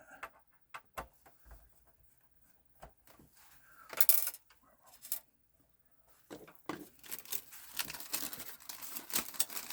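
Handling noise from a PS4 Pro being taken apart by hand: scattered clicks of screws and casing parts, a short scraping rustle about four seconds in, then a busy run of clicking and scraping near the end.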